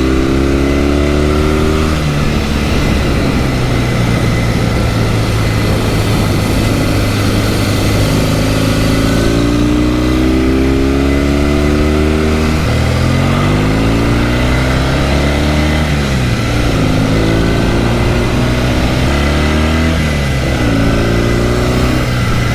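Norton 650SS parallel-twin engine on the move. It runs at an even pitch at first, then its note rises and drops back again several times as the bike accelerates and shifts up through the gears.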